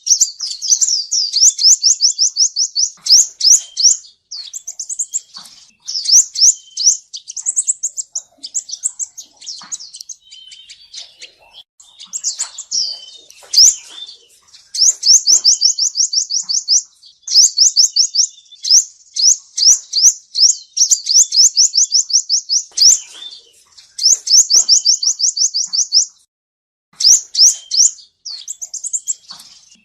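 Male sunbird (the Vietnamese 'seven-coloured sunbird') singing a high-pitched trill of rapid, sharply rising notes. The trill comes in runs of one to three seconds with short breaks, and there is a brief pause near the end. This is the male's call as played back to lure sunbirds into a trap.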